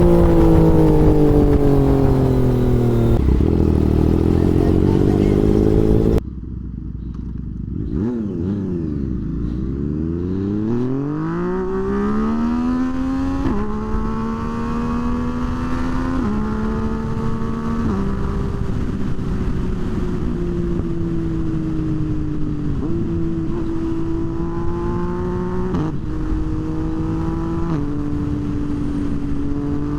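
Motorcycle engine slowing with its pitch falling, then after an abrupt break about six seconds in, pulling away from low revs and shifting up through the gears, each shift a sudden drop in pitch, before settling into steady cruising.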